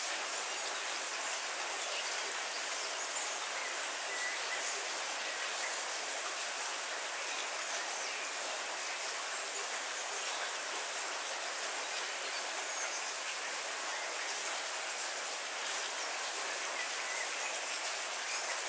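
Heavy rain falling steadily on leafy trees, an even hiss with no thunder.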